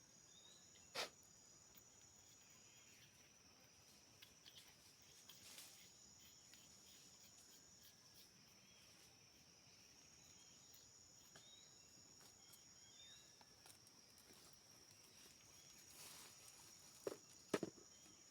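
Faint, steady high-pitched drone of forest insects, with a few short knocks about a second in and twice near the end.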